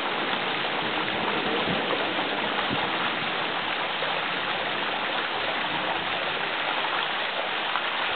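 A small mountain waterfall splashing into a rocky pool, a steady rushing of water.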